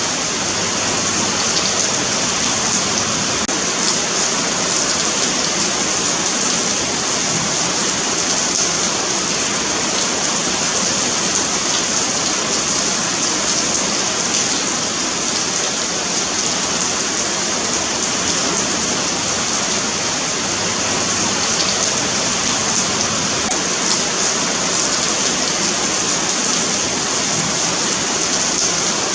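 Steady rain falling on a paved sidewalk, an even hiss of many small drops pattering on the pavement, unchanging in strength.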